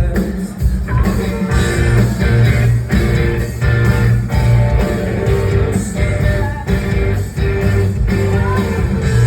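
Live rock band playing loudly: electric guitars and a singer over a full band, heard from the audience.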